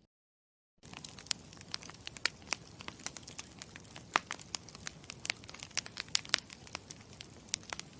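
Campfire crackling: a steady low rustle of burning with frequent sharp, irregular pops and snaps. It starts after a dead-silent first second.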